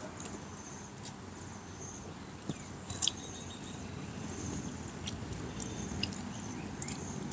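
A person eating with the hands, chewing and smacking the lips, with a few sharp clicks about two and a half and three seconds in. Insects chirp in short high trills behind it.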